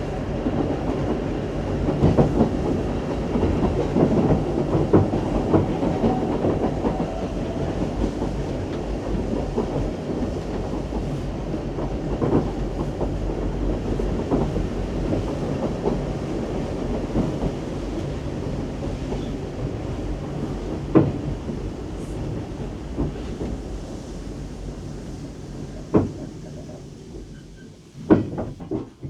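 Isle of Man Steam Railway train running on the rails: a steady rumble with clickety-clack and scattered knocks. It eases down in level over the last few seconds, with a few sharp knocks near the end.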